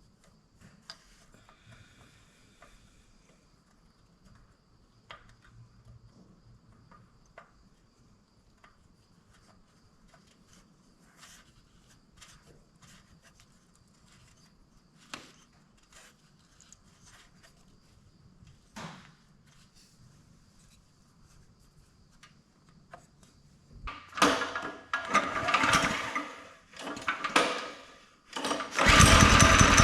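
Scattered faint clicks and small knocks of handling tools and parts. About 24 seconds in, the mini bike's small single-cylinder engine is pulled over several times in short loud bursts, sputtering, then catches near the end and runs steadily.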